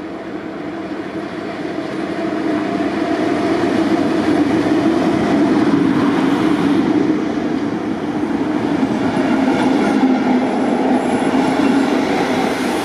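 MAV class V43 Ganz electric locomotive running in past the platform, followed by its Intercity coaches rolling by: a steady rumble of wheels on rail that grows louder over the first few seconds and then holds.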